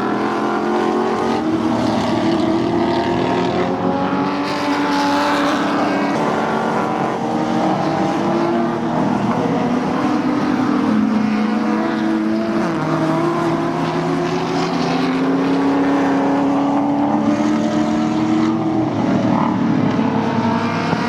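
Several Group Nc historic touring race cars running hard on track, their engine notes overlapping and rising and falling in pitch as they accelerate and pass.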